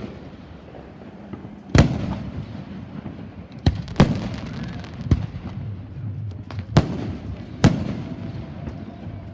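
Fireworks shells bursting overhead: a series of sharp bangs, about seven in nine seconds, the loudest around two, four, seven and near eight seconds in, each trailing off in a rumbling echo.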